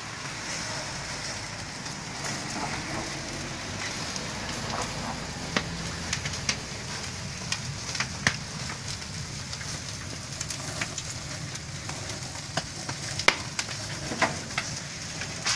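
Wood fire in a chicken rotisserie crackling, a steady hiss broken by irregular sharp pops.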